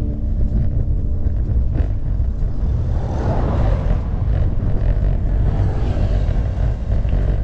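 Wind rumble on the microphone of an action camera while cycling, with road noise that swells about three seconds in.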